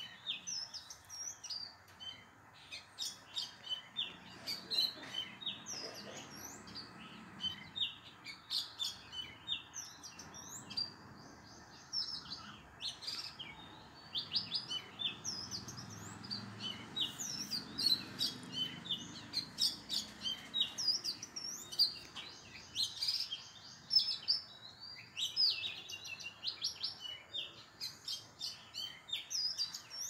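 Small songbirds chirping and twittering in a busy, unbroken stream of short high chirps, several overlapping at a time.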